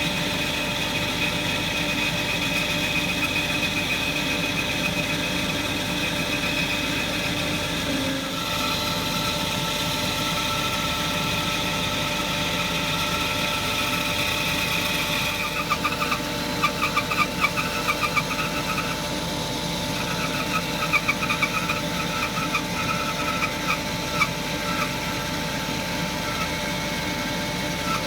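Bandsaw running steadily with a freshly fitted blade, cutting a block of cherry wood. Over the second half an irregular, rapid rasping chatter comes and goes as the blade works through the wood.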